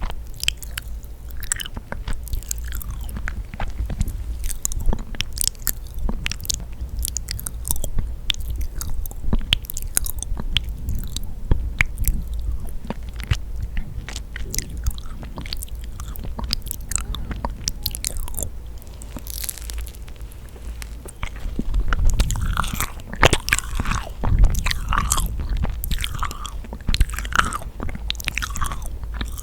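Close-miked chewing of yakgwa, a sticky, chewy Korean honey pastry: a dense run of soft, sticky mouth clicks. It gets louder for a few seconds about three quarters of the way through.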